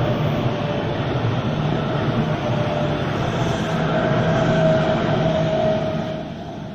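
A train running past with a steady hum and rumble, its sound dropping away near the end.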